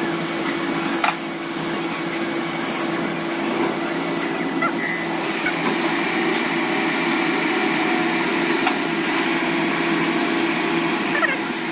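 Steady whirring machine noise with a constant hum and a few light clicks.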